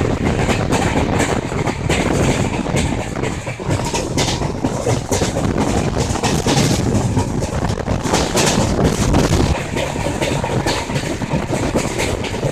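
Passenger train running, heard from on board: a steady loud rumble and rattle of the wheels on the track, with many irregular clicks and knocks.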